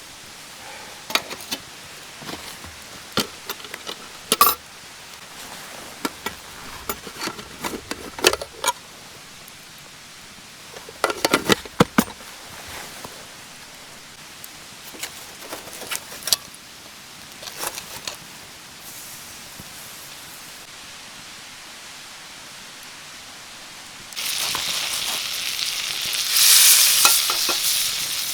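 Scattered clinks and scrapes of utensils against cookware, then about 24 seconds in a loud sizzle starts abruptly as food goes into hot oil and begins frying.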